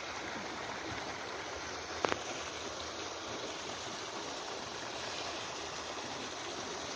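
Steady rush of running water, with one sharp click about two seconds in.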